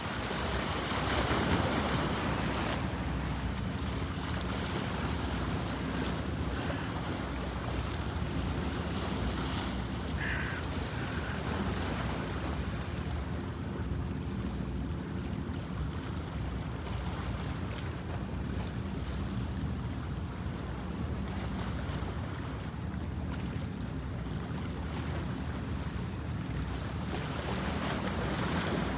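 Waves on the Bosphorus washing steadily, with wind buffeting the microphone and a faint low hum underneath. A short high call comes about ten seconds in.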